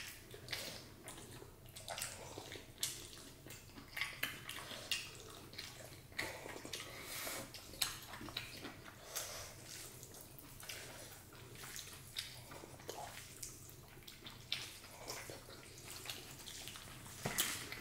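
Close-up eating sounds of a meal of dal and rice: irregular faint wet chewing and smacking, with scattered small clicks.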